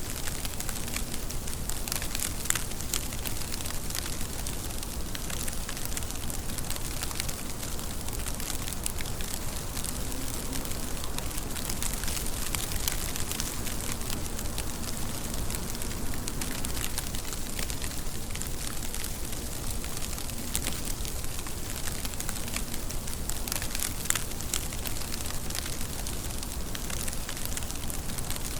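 Steady rain falling, a constant hiss with many small drop ticks and patters.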